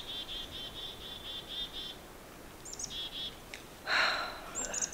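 A small bird calling a fast series of high chirps, about four a second, which stops after two seconds and starts again briefly about three seconds in. A short louder sound comes near the end.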